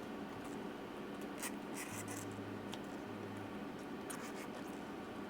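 Faint scratching and a few light clicks from handling work inside an open laptop, over a low steady hum.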